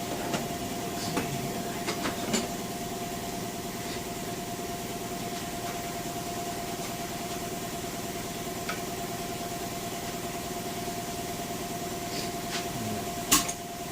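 A steady mechanical hum with a constant tone runs under light handling clicks. Near the end comes one sharp metal knock: a stuck oil pan on a small-block Chevy 350 being struck with an impact wrench used as a hammer to break it loose.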